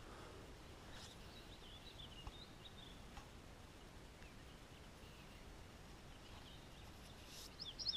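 Faint bird chirps over quiet outdoor background: a scatter of short high calls about a second in, then a quicker run of chirps near the end.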